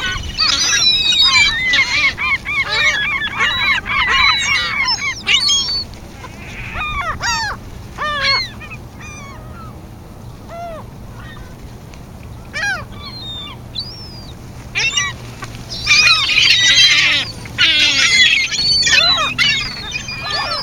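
A flock of birds calling, many short arched squawks overlapping. The calls are dense and loud at first, thin out to scattered calls through the middle, and swell into a second dense chorus about 16 seconds in.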